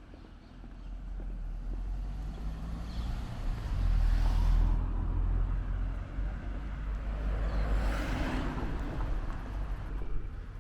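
Cars driving past on a city street: tyre and engine noise swells about four seconds in and again near eight seconds, over a low rumble.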